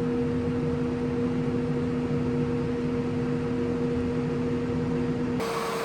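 Heat pump compressor in a Hoffman weatherized enclosure's HVAC unit running at close range: a steady hum with two steady tones under an even hiss. Near the end the sound changes abruptly, the lower tone dropping out.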